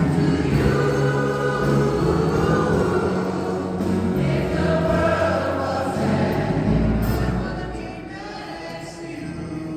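A choir singing, many voices together, growing quieter about three-quarters of the way through.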